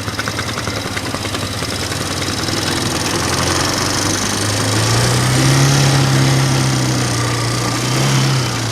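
Single-cylinder 420 cc engine of a mini-bike trike running, revving up over a few seconds, holding higher revs, then easing off near the end.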